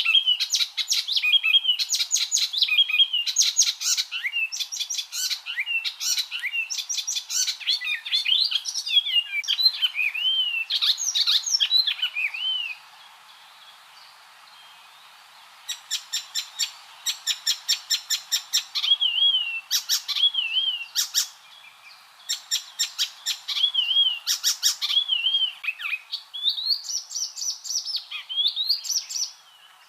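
Icterine warbler singing a fast, varied song of rapid repeated chattering notes mixed with whistled slurs. The song stops for a few seconds a little before the middle, then resumes in shorter phrases.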